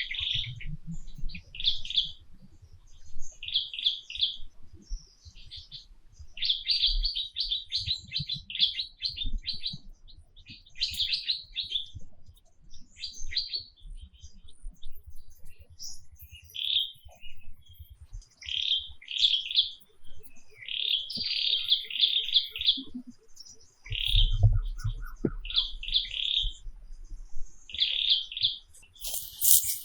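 Birds chirping, with many short, rapid chirp phrases repeated throughout.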